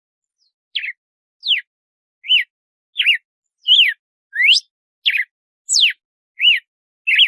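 Red-cowled cardinal (galo-de-campina) singing its 'açoite' song: a run of ten clear, loud whistled notes, about one every 0.7 seconds, starting about a second in. Some notes slide down, some slide up and some rise and fall.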